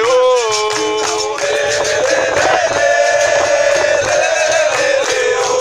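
Capoeira song sung by a man's voice, long drawn-out notes that glide and waver.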